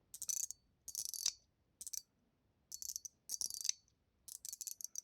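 Stainless steel spring-and-ball mechanical fidget slider being slid back and forth: about six short bursts of rapid metallic clicking and rattling, with brief pauses between.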